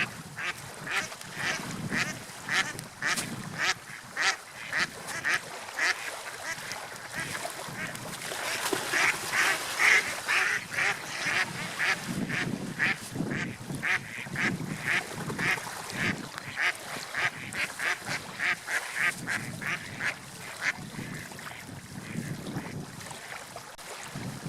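Birds calling in a long run of short, repeated calls, about two to three a second, over a steady wash of wind and water.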